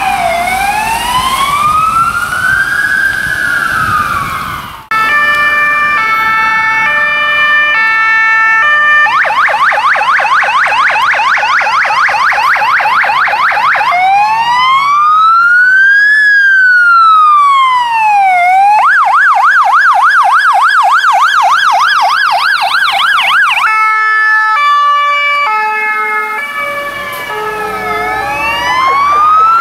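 Fire engine's electronic siren cycling through its tones: a slow rising and falling wail, a stepped multi-tone pattern, a fast yelp, then the wail again. The sound breaks off abruptly about five seconds in and resumes on the stepped tones.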